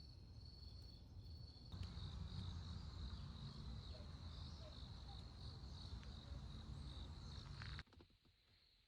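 Faint outdoor ambience of insects chirping steadily in a high band, over a low rumble. The sound steps up about two seconds in and cuts off abruptly near the end.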